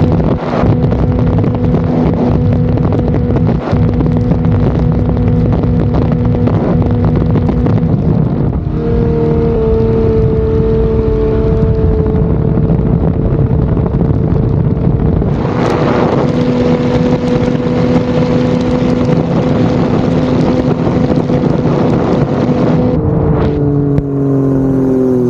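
Turbocharged Ford 4.0-litre six-cylinder engine in a race boat running hard at a steady high speed over a steady rushing noise; near the end its pitch falls as it slows.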